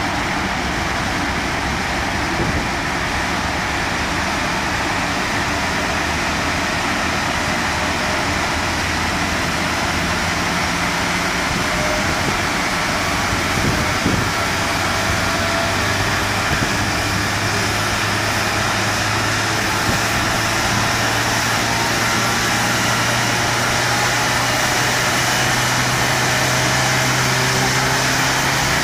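Skoda Fabia 1.9 TDI four-cylinder turbodiesel running on a chassis dynamometer: a loud, steady mechanical noise, with a low hum that comes in about halfway through and climbs slowly in pitch as the revs build.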